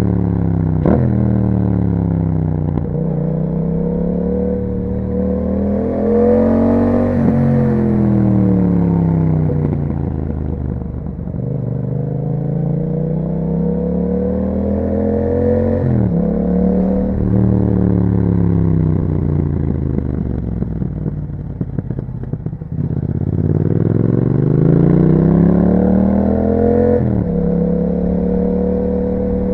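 Yamaha MT-07's parallel-twin engine through an aftermarket Akrapovic exhaust, pulling up through the revs under acceleration. It drops sharply at each quick gear change and falls away again on the throttle-off stretches, about four times over.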